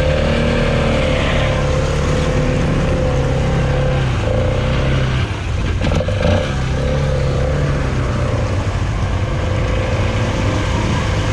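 Polaris ATV engine running at a steady, low speed. The level dips briefly about five seconds in, followed by a sharp knock.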